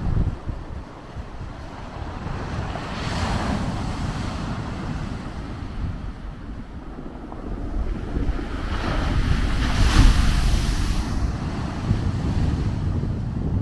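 Blizzard wind buffeting the microphone with a steady low rumble, swelling into two louder rushes, one about three seconds in and a stronger one about ten seconds in.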